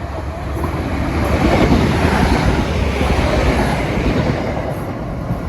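Passenger train running through the station at speed without stopping, its noise swelling to a peak in the middle and fading as it goes by.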